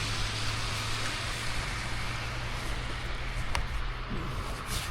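A steady low engine hum under a hissing noise that fades gradually, with a couple of sharp clicks near the end.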